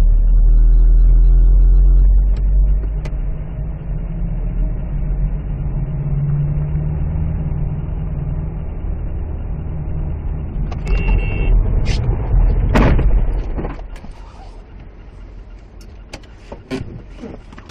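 Car engine and road noise as picked up by a dashcam inside a car: a low steady drone. A few sharp knocks and one loud bang come between about eleven and thirteen seconds in, after which it quietens.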